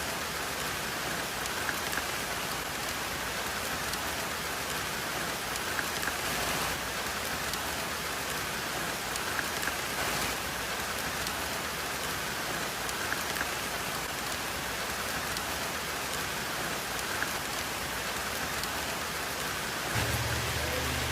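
Steady hiss of water, like rain falling on a surface, with faint crackles all through. A low hum comes in near the end.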